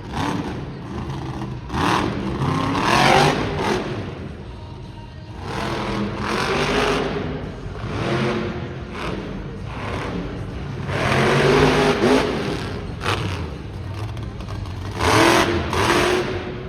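Monster truck engine revving hard in repeated surges, its pitch climbing and dropping every few seconds as the truck works through a freestyle run.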